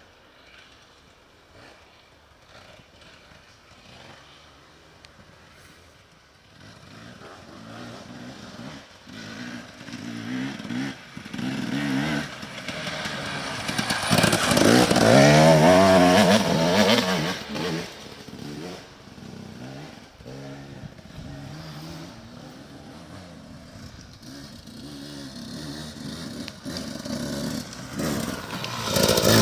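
Enduro motorcycle engine coming closer and getting louder, revving hard with the pitch rising and falling as it passes about halfway through, then settling to a steadier run. A fresh burst of revving starts near the end.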